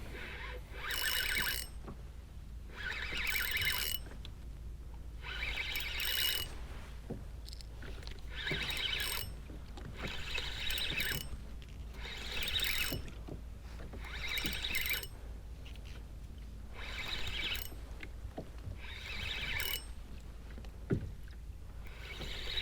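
Fishing reel working in repeated bursts, roughly one every two seconds: gears whining and ratcheting as line is wound in and pulled against the drag while a hooked bonito is fought. A couple of sharp knocks come near the end.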